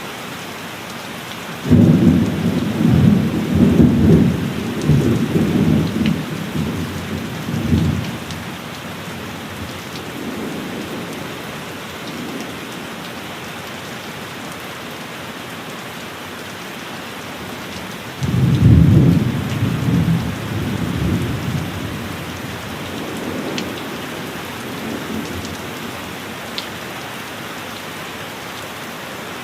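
Steady heavy rain with two loud claps of rolling thunder, one starting about two seconds in and rumbling for several seconds, the other about two-thirds of the way through, each fading in lower rumbles.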